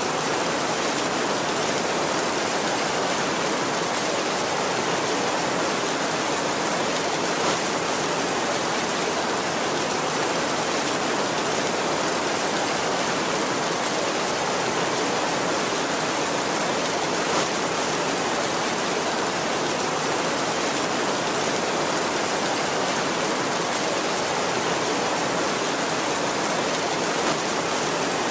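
Heavy rain falling steadily on a tin roof, an even, dense rush with no break.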